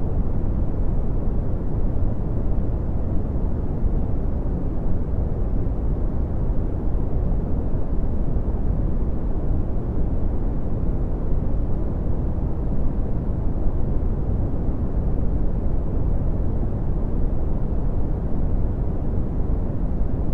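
Synthetic red (Brownian) noise: a steady, deep rumbling hiss, strongest in the bass and falling away toward the treble, with no change in level.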